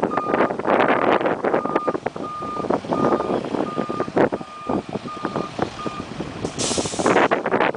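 Hi-rail truck's reversing alarm beeping at a steady single pitch, about one and a half beeps a second, over loud knocking and rattling from the truck; the truck is in reverse. The beeping stops about six seconds in, and a short hiss follows near the end.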